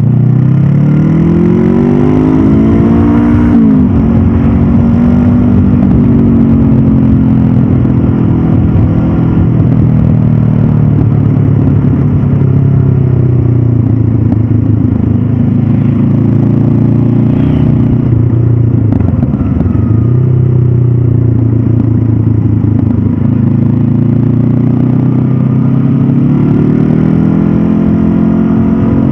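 Stock Honda CB500F's parallel-twin engine and exhaust under way: the revs climb over the first few seconds, drop sharply at about three and a half seconds, run fairly steady with a couple of brief dips, then climb again near the end.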